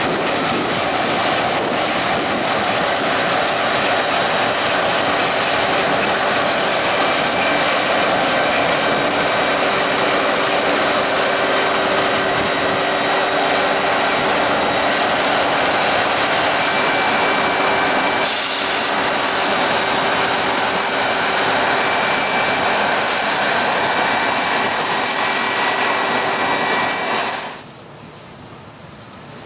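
Claas Lexion 770 combine harvester running at working speed: a steady, loud mechanical din of engine, threshing rotors and fans with a thin high whine. It cuts off abruptly near the end.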